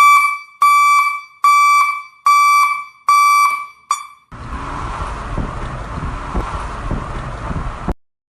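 An electronic beeper sounding five loud beeps on one tone, about one every 0.8 seconds, with a short sixth beep. Then a steady noisy rumble runs for about three and a half seconds and cuts off abruptly.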